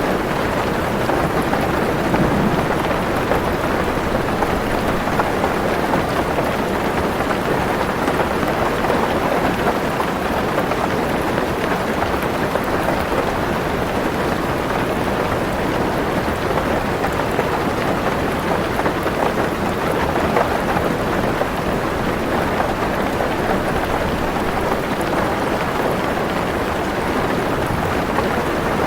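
Heavy rain falling on a car's roof and windows, heard from inside the car as a dense, steady patter.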